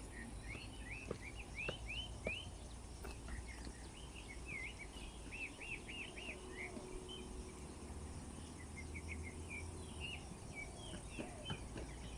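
Small birds chirping in quick runs of short, sweeping notes, over a steady low rumble.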